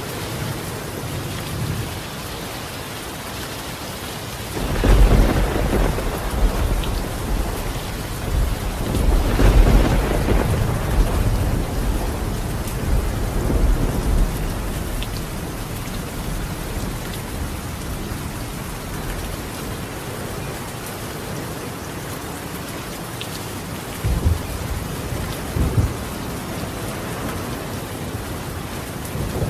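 Steady rain on a tiled roof with rolling thunder. A long low rumble starts about five seconds in, swells again a few seconds later and slowly fades; two shorter low rumbles come near the end.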